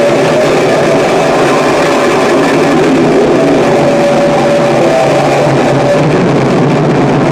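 Harsh noise music: a loud, dense, unbroken wall of distorted noise, with a thin whine that comes and goes in the middle of it.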